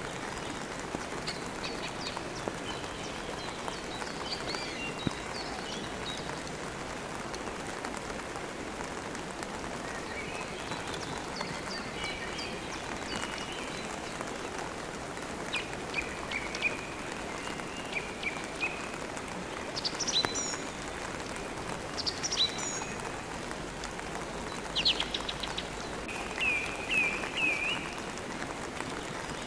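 Steady rain with birds chirping on and off over it: short chirps, quick falling whistles and a brief trill, with a run of repeated chirps near the end.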